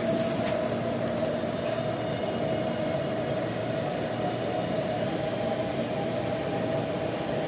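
Metro train running, heard from inside the carriage: a steady rumble and rushing noise with a constant whine, and a faint click about half a second in.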